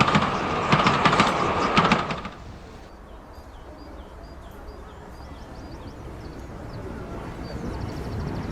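A train rattling past, its wheels clicking regularly over the rail joints, cut off suddenly about two seconds in. A low rumble follows and slowly grows louder, with faint high chirps over it.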